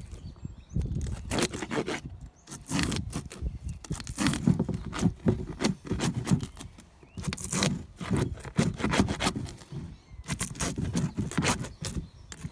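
Repeated scraping on a wooden beehive frame as dead brood comb is cleaned out, in runs of quick strokes with short pauses.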